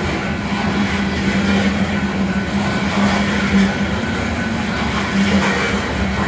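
Loaded coal train's cars rolling past on the rails, a steady, even running noise with a constant low hum.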